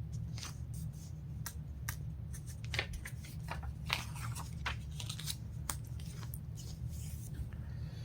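Paper rustling and crinkling as the pages of a printed catalog are handled and turned: a string of short, crisp rustles over a steady low hum.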